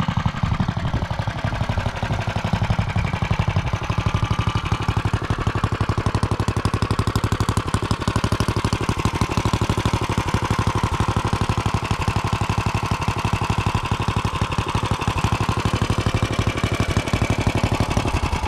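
Minibike's single-cylinder four-stroke Tillotson 212 engine, race-built with a billet rod and racing camshaft, running steadily with an even, rapid chain of firing pulses.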